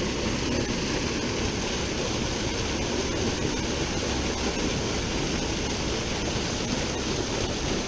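Steady rushing of river water flowing over rocks, an even noise without a beat.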